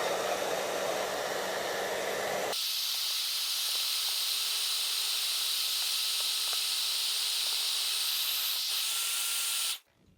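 Hand-held hair dryer blowing hot air onto shoe leather to work out an air bubble. Its steady rush changes abruptly about two and a half seconds in to a thinner, higher hiss, then cuts off suddenly near the end.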